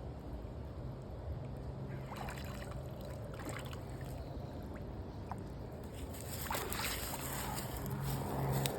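Shallow water splashing and sloshing as a person wades and reaches into it, louder in the last few seconds, over a steady low hum.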